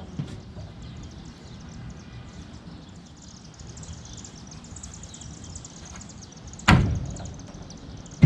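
A single sharp knock about six and a half seconds in, dying away over about a second, over a low rumble and faint high ticking.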